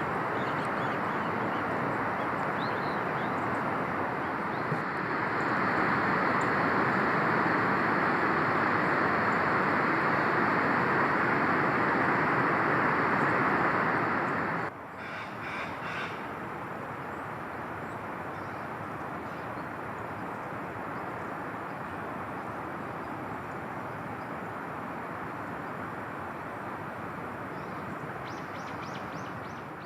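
Steady outdoor rushing noise that swells louder for several seconds, then drops abruptly about halfway through and carries on more quietly. Faint short calls show a few times.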